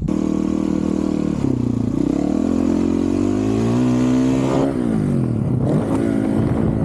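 Honda CRF450RL dirt bike's single-cylinder four-stroke engine, through a titanium Yoshimura RS-4 exhaust, accelerating hard with rising revs. The throttle closes and the revs fall away about five seconds in, then the engine picks up again near the end.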